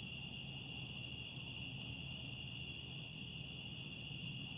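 A steady chorus of crickets, with a low rumble beneath.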